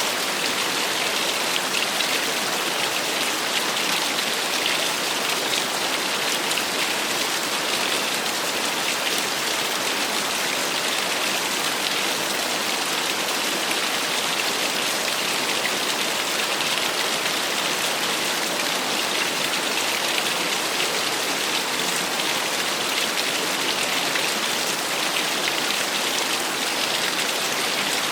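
Small waterfall splashing steadily, a continuous hiss of falling water with little bass and no let-up.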